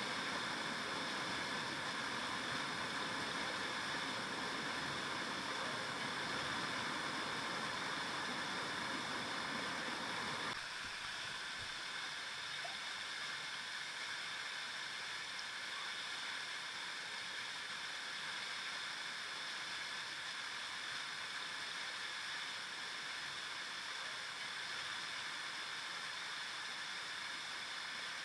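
A river flowing, a steady rush of water. About ten seconds in the sound changes abruptly, its deeper rumble dropping away and leaving a thinner, hissier rush.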